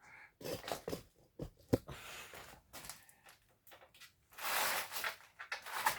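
Scattered light knocks and rustling, with a longer scraping rustle about four and a half seconds in, as a person moves around getting under a car.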